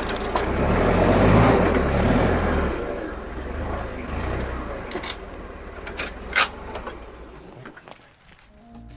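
Forklift engine running, loudest in the first two or three seconds and then settling lower and fading. A few sharp knocks fall over it, the loudest about six seconds in.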